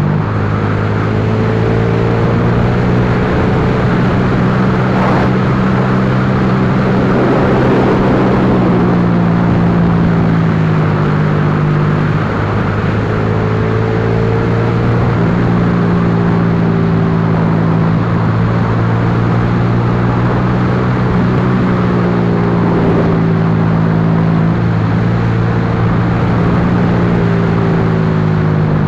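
Yamaha Lagenda 115Fi's small single-cylinder four-stroke engine running under way, heard from on board. The engine note holds fairly steady and dips briefly about twelve seconds in before picking up again as the throttle changes through the corners, over a steady low rush of wind.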